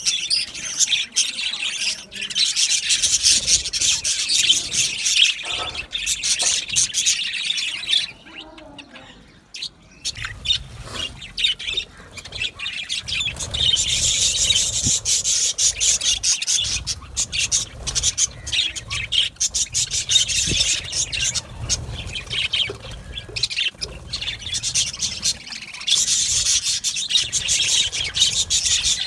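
A colony of budgerigars chattering in an aviary: a dense, continuous stream of fast chirps, warbles and squawks. It drops to a brief lull about eight seconds in, then picks up again.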